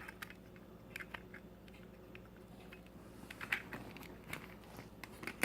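Faint, scattered clicks and taps of a small plastic dash cam suction cup mount being handled and felt in the hands, over a faint steady hum.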